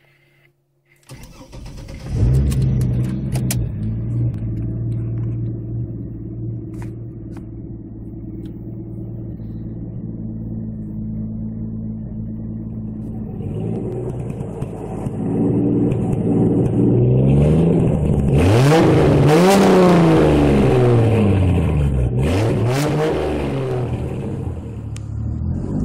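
Turbocharged GMC Envoy 4.2-litre inline-six starting about two seconds in and idling steadily. From about halfway it is revved several times, the revs rising and falling quickly, with a sharp hiss at the loudest revs.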